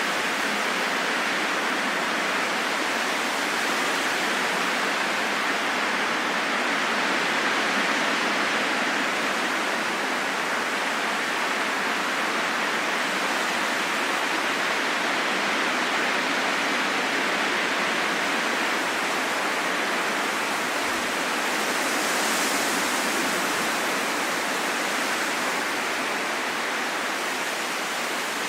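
Steady rushing wind, an even whoosh that swells gently a couple of times, most noticeably about three-quarters of the way through.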